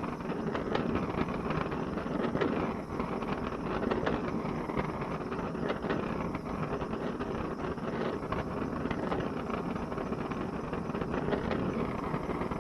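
Steady rushing noise of the forge running while a steel punch is heated for tempering.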